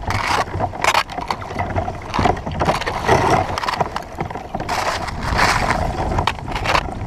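Kayak paddle strokes splashing in the water, several swishes at an uneven pace, with water rushing along the hull between them.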